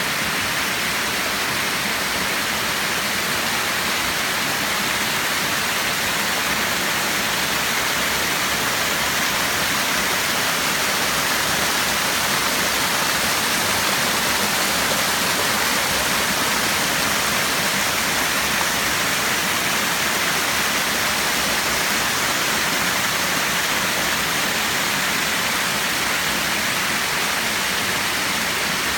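Mountain creek waterfall rushing with a steady, even roar of falling water.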